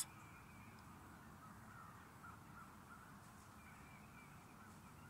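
Near silence outdoors, with faint bird calls now and then.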